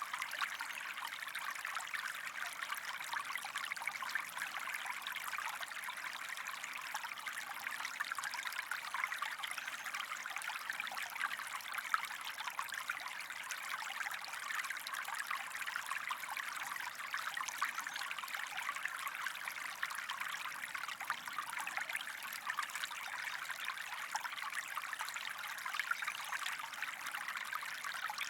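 Water running in a stream: a steady trickling and splashing that does not change.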